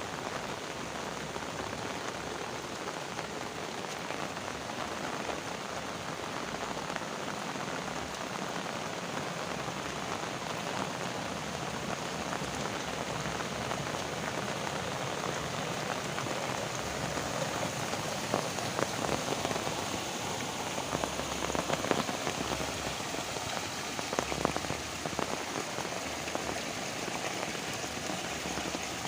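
Heavy rain falling steadily, with sharper drop impacts standing out now and then in the second half.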